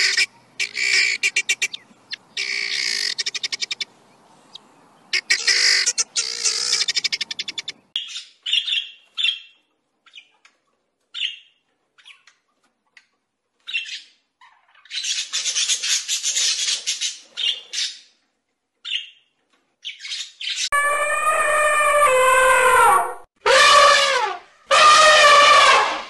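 Birds calling: a run of harsh squawks for the first several seconds, then scattered short chirps, and near the end three long, loud calls with a clear pitch, the middle one falling.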